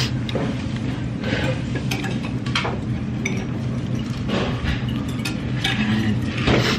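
Eating sounds: biting and chewing a piece of fried salt-and-pepper pork chop, with scattered clinks of dishes and cutlery over a steady low restaurant hum.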